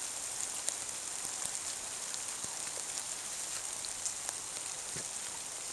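Light rain falling, a steady hiss with scattered sharp drips of drops landing close by.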